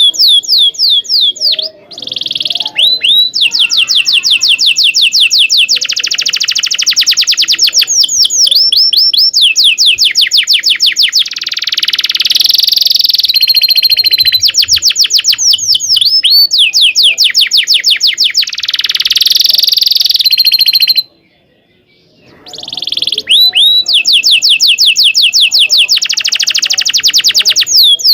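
Domestic canary singing loudly in long rolling trills of rapid repeated high notes, broken by chirps and quick pitch sweeps. There is a short pause about three-quarters of the way through.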